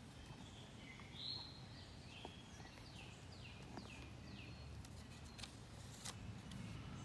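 Faint birdsong over a low steady outdoor background hum: scattered calls, then a run of four quick falling notes about three seconds in. A couple of sharp clicks come near the end.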